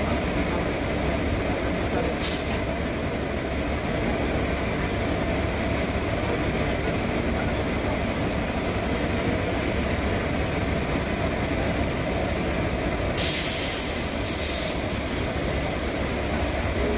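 Steady running noise of a passenger train in motion, heard from aboard an ICF coach. There is a brief hiss about two seconds in and a longer one near the end.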